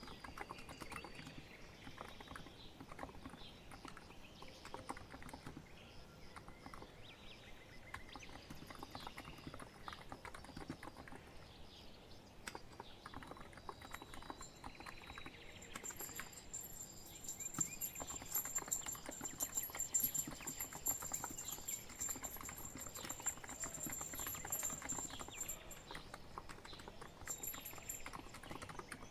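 Continuous typing on a COX Empress electrostatic capacitive (Topre-style) keyboard: a dense, irregular patter of soft key strikes. About halfway through, a high, rapidly pulsing background tone joins in and stops near the end.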